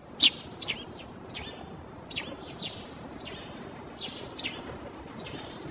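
Birds chirping: short, sharp chirps that fall in pitch, one or two a second, over a steady faint outdoor background hiss.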